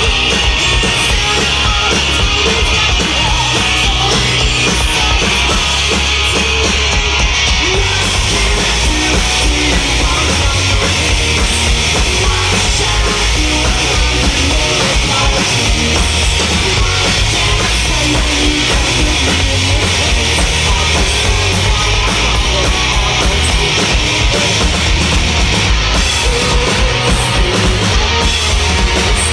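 Rock band playing live at full volume: electric guitar, bass and drum kit in a dense, continuous wall of sound.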